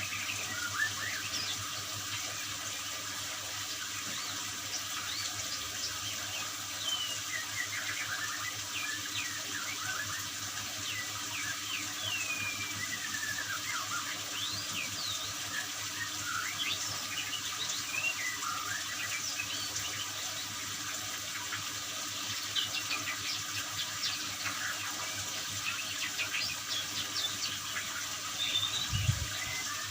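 Steady running water, like a tap or spray, with many short bird chirps and whistles over it, from a white-rumped shama (murai batu) being given water therapy to stir it into singing.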